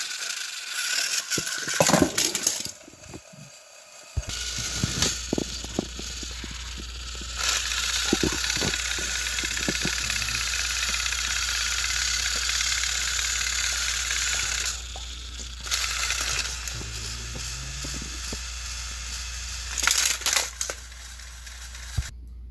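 Battery-powered toy train motors whirring steadily, with plastic clicking and rattling; the whir stops twice briefly, and loud clatters come near the start and near the end.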